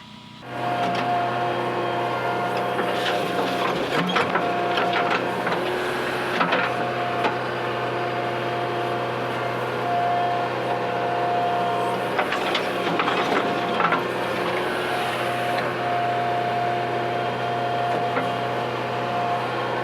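JCB 3DX backhoe loader's diesel engine running under work, with a higher hydraulic whine that comes and goes as the controls are worked and scattered clanks and knocks. It starts abruptly about half a second in.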